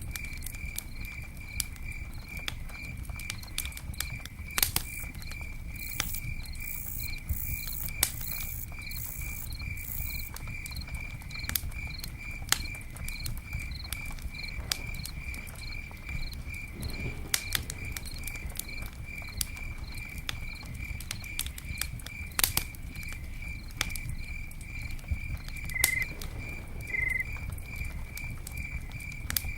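Campfire crackling, with scattered sharp pops over a low steady rumble, while a cricket chirps steadily at about two to three chirps a second.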